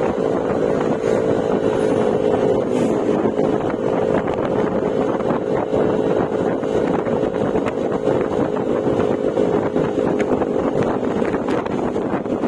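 Yamaha Mio Gravis scooter's single-cylinder engine running through an aftermarket Akrapovic exhaust with silencer, holding a steady drone at an even cruising speed, with wind rushing over the microphone.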